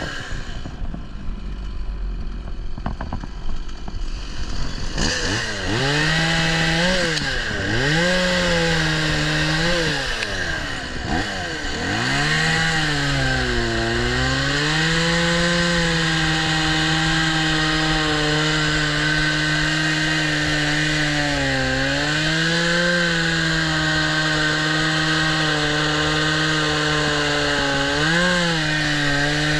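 Chainsaw engine: quiet and low for the first few seconds, then revved up and down several times, then held at high revs for long stretches with brief dips in pitch, as when the chain bites into wood while cutting up fallen trees.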